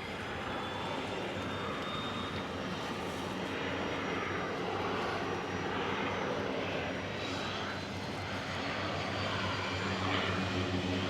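Single-engine floatplane's engine running steadily, growing gradually louder toward the end.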